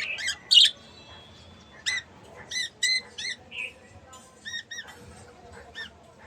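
Budgerigars chirping and squawking in short separate calls, loudest in the first second, then scattered chirps, some in quick pairs.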